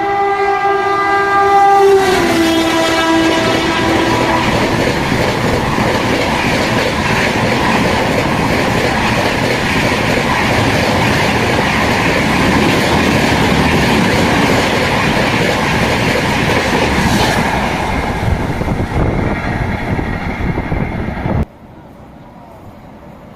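Express train passing at about 130 km/h: its horn sounds and drops in pitch about two seconds in as the locomotive goes by, then the coaches rush past with a loud, steady rumble of wheels on the rails that cuts off suddenly near the end.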